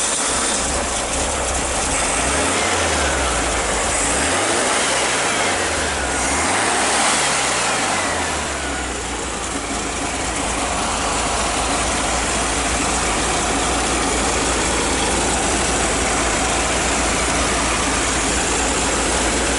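A 1962 Volkswagen Beetle's air-cooled flat-four engine running, heard at the open engine lid. It is revved up and back down a few times in the first half, then settles to a steady idle.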